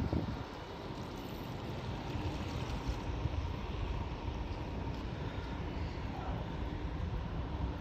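An engine running steadily: a low rumble with a faint steady hum over it.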